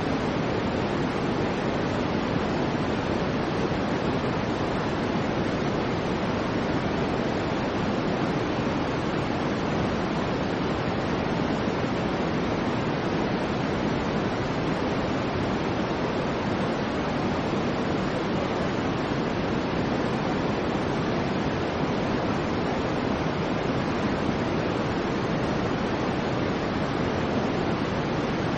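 Soft white noise of the kind played to soothe babies to sleep: an even, unchanging hiss with more weight in the low and middle range, steady in level throughout.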